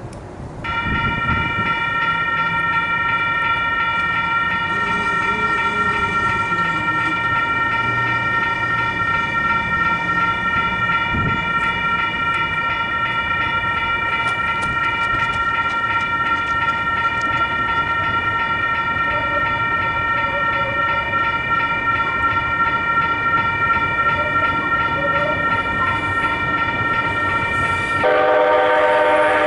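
Railroad crossing warning bell starts ringing about a second in and keeps up a steady ring. Near the end a louder train horn sounds over it.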